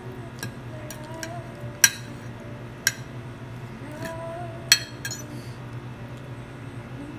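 Cutlery clinking against a plate during eating: three sharp clinks about two, three and five seconds in, with a few lighter taps, over soft background music.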